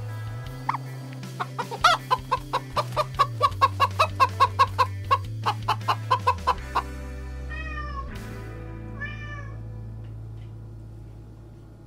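Chickens clucking in a quick run of short clucks, about five a second, over background music. Then a domestic cat meows twice.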